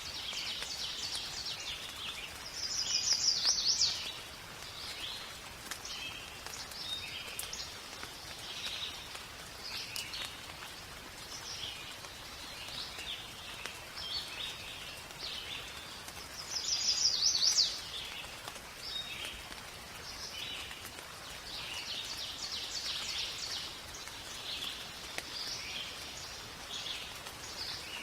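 Forest birds chirping and singing throughout over a faint hiss of rain. A louder, higher song phrase comes about three seconds in and again a little past the middle.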